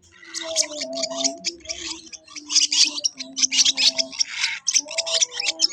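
Baby parrot chicks begging for food, a string of short raspy, hissing calls with a few longer rasps.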